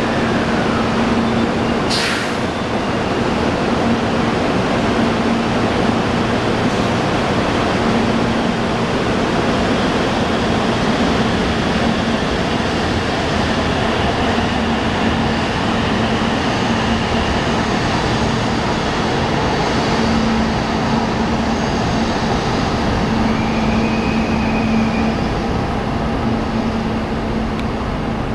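Kyushu Shinkansen 800 series train departing and running past the platform: a steady rumble of wheels and running gear with a low hum in it and a single sharp click about two seconds in, easing off slightly near the end as the last cars pass.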